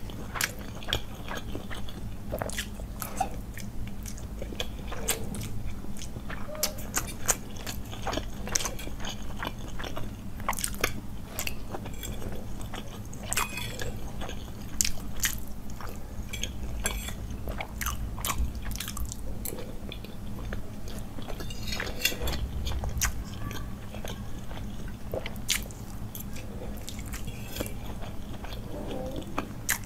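Close-miked eating: chewing mouthfuls of Maggi instant noodles and boiled egg, with wet mouth sounds and frequent sharp, irregular clicks and crunches over a steady low hum.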